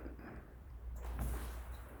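Quiet room tone: a steady low electrical hum under faint background noise that swells slightly about a second in.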